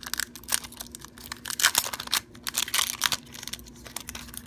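Foil wrapper of a Pokémon trading card game booster pack crinkling and crackling as it is handled and opened, louder about a second and a half in and again near three seconds.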